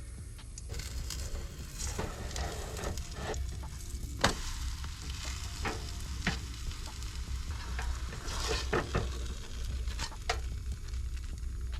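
Pancake batter frying in a pan on a camp stove, a steady sizzle broken by several sharp clicks and scrapes, the loudest about four seconds in. A steady low hum runs underneath.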